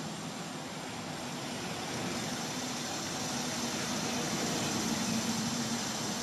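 A steady engine hum under a broad rushing noise, slowly growing louder.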